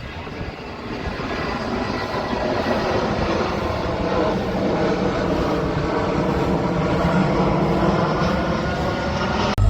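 A train's locomotive engine running with a steady hum of several tones over a rushing noise, growing gradually louder over the first few seconds, then holding steady.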